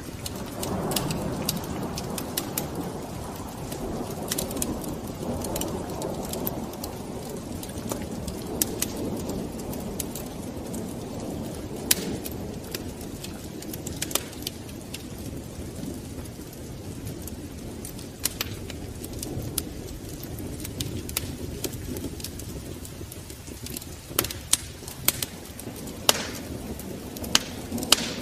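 Fire crackling in a fireplace: a steady low rumble of flame with irregular sharp pops and snaps, which come more often in the last few seconds.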